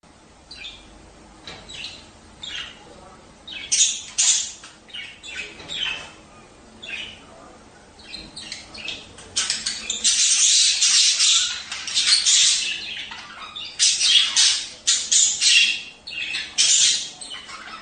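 Budgerigars chattering: short, scratchy chirps and squawks. They come in scattered bursts at first, then build into dense, almost unbroken warbling chatter from about ten seconds in.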